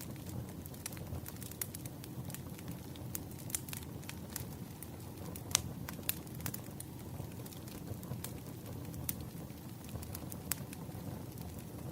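Wood fire burning, crackling with irregular sharp pops over a steady low rumble; one pop about halfway through is louder than the rest.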